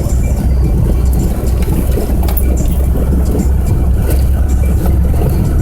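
Steady low rumble of a moving vehicle, with scattered light clicks.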